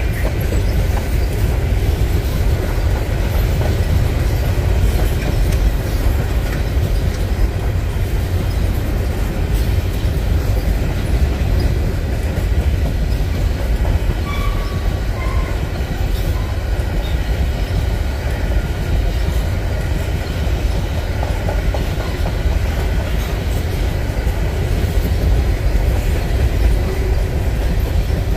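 CP freight train's covered hopper cars rolling past at close range: the steady, heavy rolling noise of steel wheels on rail, continuous throughout.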